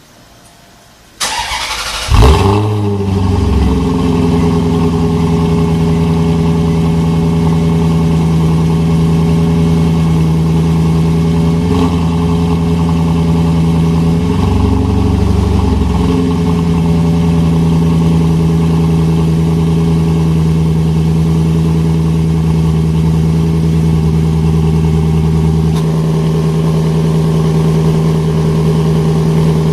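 Maserati Quattroporte's 4.2-litre V8 through a Larini Club Sport valved sports exhaust: the starter cranks for about a second, the engine catches with a sharp flare of revs, then settles into a steady idle with one slight rise in revs about halfway.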